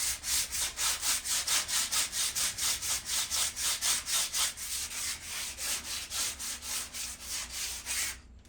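Rusted metal patio furniture being sanded by hand: quick, even back-and-forth scraping strokes, about four or five a second, stripping surface rust from the metal. The strokes stop shortly before the end.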